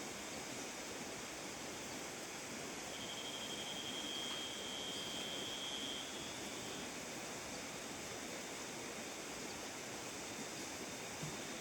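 Steady rain falling, an even hiss with no thunder. A faint high thin tone sounds for about three seconds in the first half, and there is a small click near the end.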